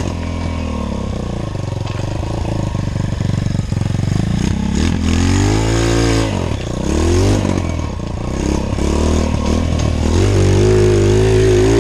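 Pit bike engine running under load while riding, its pitch rising and falling with the throttle. It blips up and down several times in the middle, then holds at higher revs near the end.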